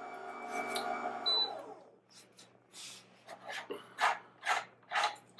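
Amzchef ZM1517 slow masticating juicer's motor whines steadily with the meat grinder attachment fitted, then is switched off about one and a half seconds in, its pitch falling as it stops. After that comes a run of rhythmic scraping strokes, about two a second, as the grinder head is worked apart to change the cutter blade.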